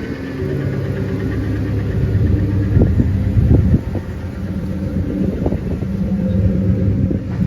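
A vehicle's engine runs at a steady pitch, with a few short low thumps.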